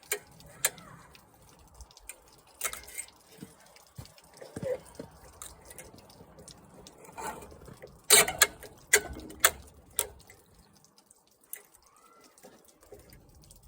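Hand tools clicking and clinking against the lawn mower's metal parts while the carburetor is worked loose, in scattered sharp knocks with a loud cluster of them about eight to nine and a half seconds in.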